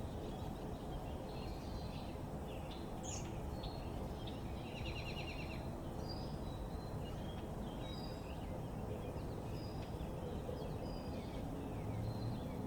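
Several small backyard birds chirping and calling in short notes, with a quick trill about five seconds in, over a steady low rumble of background noise. A low hum starts near the end.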